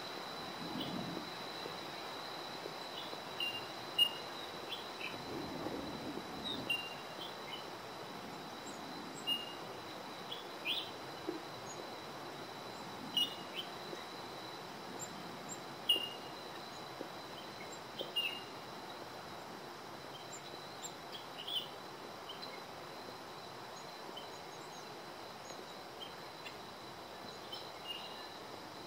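Wild birds chirping in bushland: many short, high chirps and pings scattered throughout, a few louder than the rest. Underneath runs a steady thin high tone and an even background hiss.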